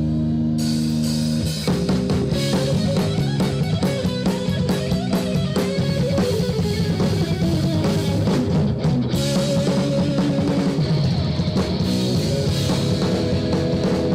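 Live rock band playing, with drum kit and guitar. It opens on a held chord, and the full band with drums comes in about a second and a half in, keeping a busy driving beat.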